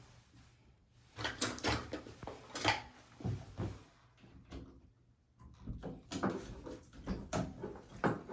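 Clicks, knocks and scraping of hand tools on metal plumbing parts as a mixer valve cartridge is worked loose, in two bouts of irregular clattering.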